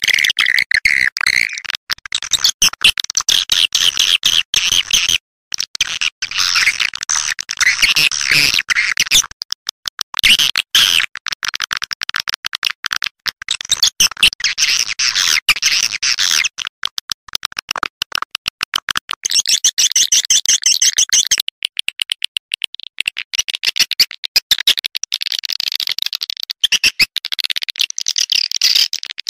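Swiftlet lure-call recording (suara panggil walet): dense, rapid high-pitched chirps and twitters of swiftlets, played to call the birds into a swiftlet nest house. It runs on almost without pause, with a few short breaks.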